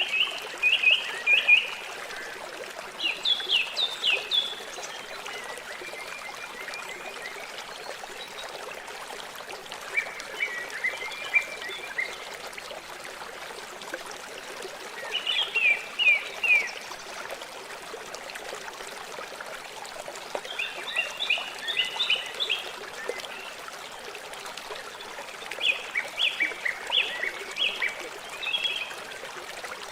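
River water flowing steadily. Over it, a songbird sings a short phrase of quick, high chirping notes about every five seconds.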